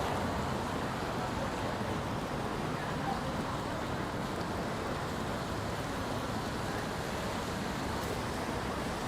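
Steady hiss of rain and passing traffic on wet city streets.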